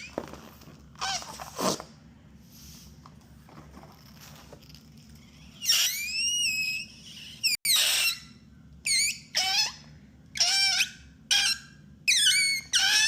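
Rubber balloon squeaking: a couple of short squeaks in the first two seconds, then after a lull a run of about eight high-pitched squeals, some gliding up or down in pitch.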